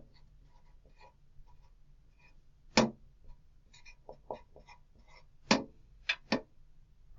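Faint pen taps and clicks from writing on the worksheet: a scattering of light ticks, with four sharper clicks, one about three seconds in and three in close succession near the end.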